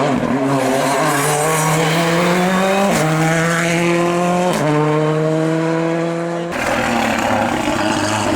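Race car engine accelerating hard up a hillclimb, its note rising through two quick upshifts about three and four and a half seconds in. Near the end the sound cuts abruptly to a rougher, steadier engine note.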